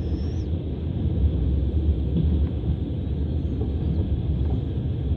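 Passenger train running on the Trans-Siberian line, heard from inside the carriage: a steady rumble of wheels on rails.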